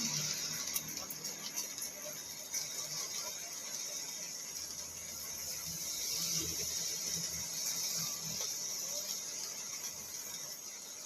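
Rain falling on a car's roof and windows, heard from inside the cabin: a steady hiss scattered with many small ticks of drops.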